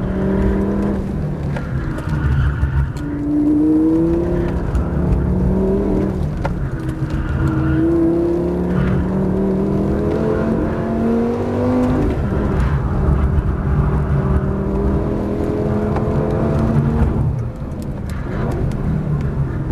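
Lamborghini Gallardo V10 engine heard from inside the cabin, pulling hard on a racetrack: its note climbs in several runs as the car accelerates and drops back between them as the driver shifts or lifts for corners.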